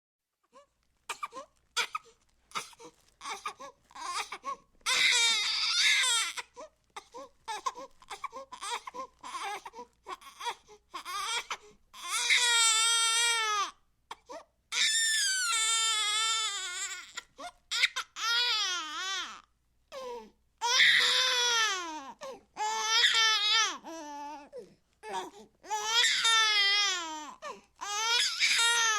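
Baby crying: short, choppy sobs at first, then long wavering wails from about five seconds in, each broken off by a quick breath.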